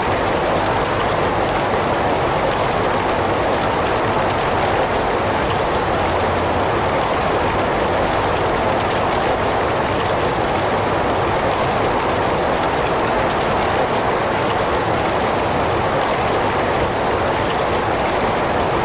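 Heavy rain falling steadily: an even, unbroken hiss of many drops, strongest in the middle range, with no single drips, thunder or breaks standing out.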